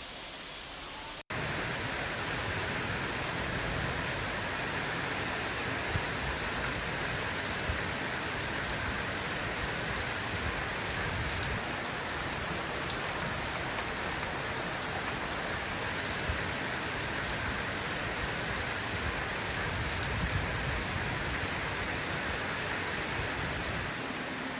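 Heavy rain pouring down onto a flooded street: a dense, steady hiss that comes in abruptly about a second in, after a brief drop-out.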